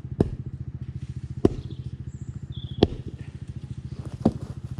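Four sharp strikes about a second and a half apart as a tree root is chopped at to knock it out of the track, over a pit bike engine idling steadily.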